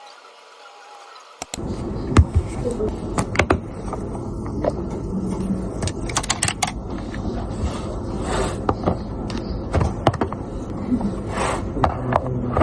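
A faint hiss, then from about a second and a half in a busy background of low rumble and murmur with many sharp clicks and clatters.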